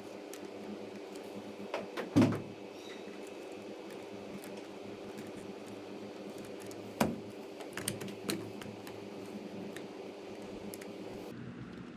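A few sharp plastic clicks and knocks from LEGO Technic pieces being handled. The loudest comes about two seconds in and a small cluster near the end. A steady low hum runs underneath.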